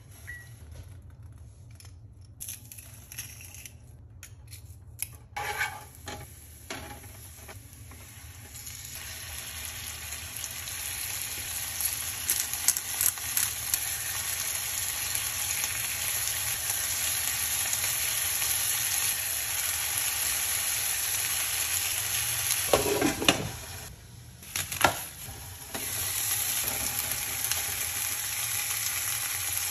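Chicken breasts frying in olive oil in a pan: a steady sizzle that builds from about nine seconds in and holds, after a quieter start with a few knocks. Scattered clicks and knocks of pan and utensils cut through the sizzle, with a louder knock and a brief drop in the sizzle a little over twenty seconds in, before it picks up again.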